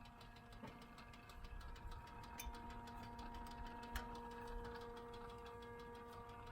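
Rapid, irregular light ticking from a BMW F10 M5 just after the engine is shut off, over a faint steady hum, with one sharper click about four seconds in.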